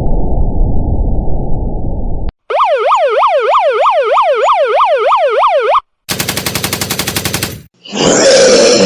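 A montage of abrupt sound effects. A low rumbling noise stops about two seconds in. Next comes a tone warbling rapidly up and down, about three sweeps a second, for some three seconds. Then a fast rattle of sharp clicks, and near the end a loud, brief voice-like grunt.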